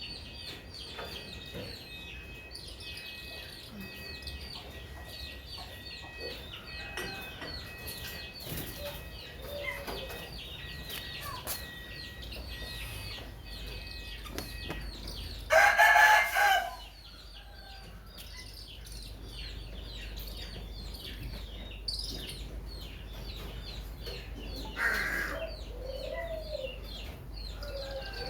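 Birds chirping constantly in many short, high notes. About halfway through, one loud drawn-out call that sounds like a rooster crowing stands out above them, and a shorter loud call comes a few seconds before the end.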